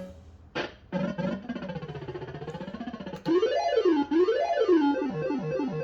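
Bell-Fruit Wild Cats fruit machine's electronic sound effects: a click, then quick warbling bleeps, two sweeps rising and falling in pitch in the middle, and a fast stepping run of notes near the end.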